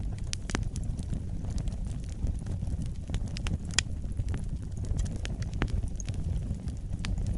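Wood fire burning in a fireplace: a steady low rumble of the flames with irregular sharp crackles and pops, a dozen or so scattered through, one of the louder pops near the middle.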